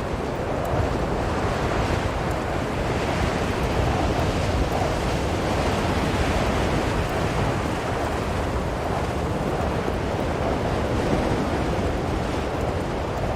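Blizzard wind blowing steadily, a dense rushing noise that swells and eases only slightly.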